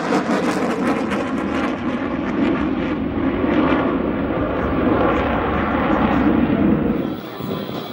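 Jet noise from a Boeing EA-18G Growler's two turbofan engines as it flies its demo, a steady loud rush with crackle that eases off near the end.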